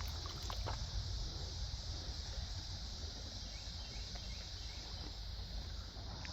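Steady high-pitched chorus of insects, over a faint low rumble with a few soft clicks in the first second.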